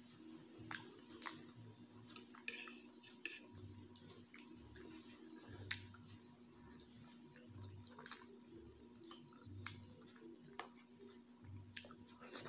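Close-up eating sounds: chewing soft noodles and boiled egg, with scattered sharp clicks of a metal fork and spoon against teeth and the plate.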